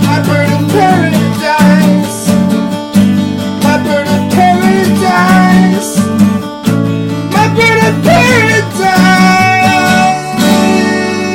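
Acoustic guitar strumming chords, with a wordless sung melody over it, closing on a last chord left to ring about ten seconds in.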